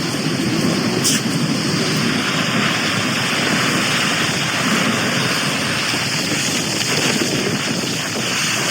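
Storm-driven surf breaking and churning against the shore in a steady rush, with wind buffeting the microphone.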